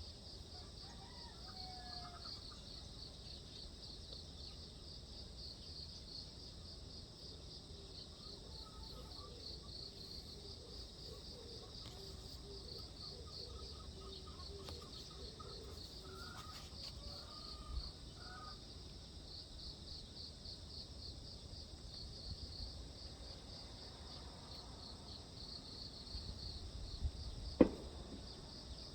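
Steady, rapidly pulsing chirping of insects such as crickets, with a few faint bird calls in the background. One sharp click sounds near the end.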